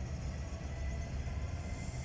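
Class 66 diesel locomotive, with its two-stroke V12 engine, idling at a standstill: a steady low rumble.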